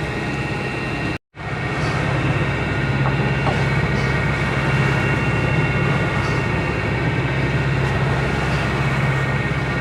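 Sailboat's inboard diesel engine running steadily while motoring, a constant drone with a low hum. The sound cuts out for a split second just over a second in, then the same drone carries on.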